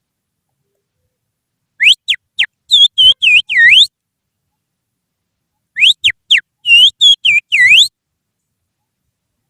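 A person finger-whistling an imitation of oriental magpie-robin (kacer) song as a lure call. The same phrase comes twice, a few seconds apart: three quick rising whistles, then a run of swooping, dipping notes.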